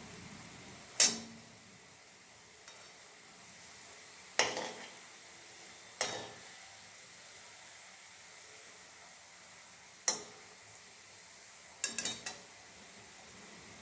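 Langcha, balls of chhana dough, frying in a pan of oil with a faint steady sizzle, while a utensil knocks sharply against the pan about five times, the last a quick cluster of clinks.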